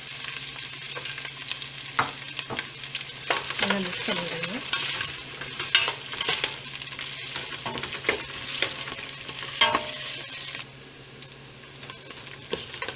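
Chopped onion, garlic, green chillies and curry leaves sizzling in sesame oil in a stainless steel pot, stirred with a spoon that scrapes and knocks against the pot. The sizzle drops off suddenly about three-quarters of the way through.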